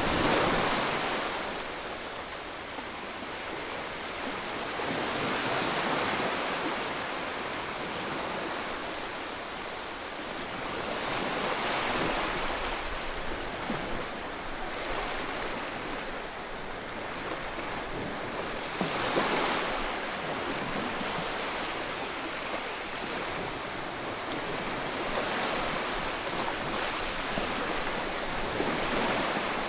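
Sea waves breaking and washing ashore, a steady rushing hiss that swells with each breaker about every six seconds.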